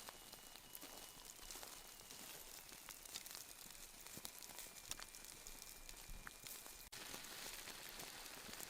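Faint sizzling and crackling of food cooking over a wood fire, with small irregular pops throughout and an abrupt change in the background about seven seconds in.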